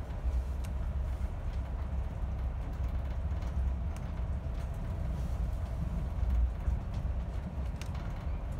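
Steady low rumble of a passenger train carriage running along the rails, heard from inside the carriage, with a few faint clicks.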